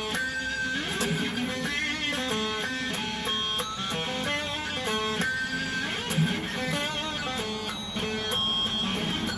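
PRS Tremonti electric guitar played through a Zoom effects unit: a moving line of picked notes, some held with vibrato.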